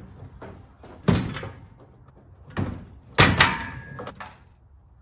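Loose metal parts of a drywall hoist knocking and clanking as they are handled, in a few separate thuds. The loudest comes about three seconds in and rings briefly.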